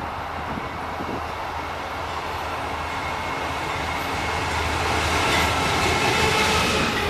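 CSX freight train's diesel locomotives approaching and running past close by, their engine rumble and wheel noise growing steadily louder as they near.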